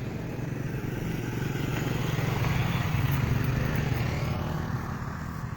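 A motor vehicle's engine passing close by: the low engine hum grows louder to a peak about three seconds in, then fades as it moves away.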